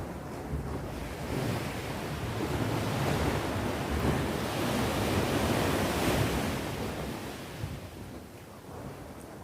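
Ocean waves breaking and washing on the shore: one wave swells up over the first few seconds, peaks near the middle and ebbs away toward the end, with some wind noise on the microphone.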